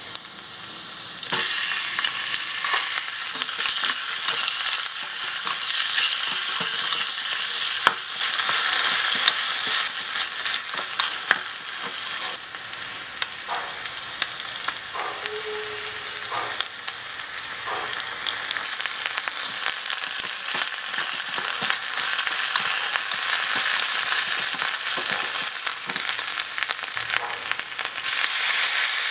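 Beef pieces frying in hot oil in a small aluminium pot: a steady, high sizzle that jumps up about a second in as the meat goes into the pan, with a wooden spatula scraping and clicking against the pot as it is stirred.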